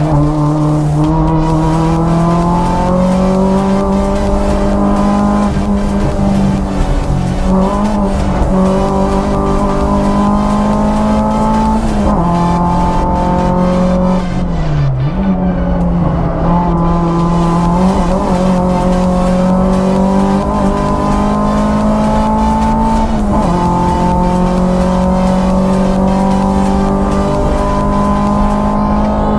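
Renault Clio 172's four-cylinder engine heard from inside the cabin at racing pace, held high in the revs, its pitch climbing through each gear and falling back at the shifts, with two sharper dips where it slows and gears down for corners.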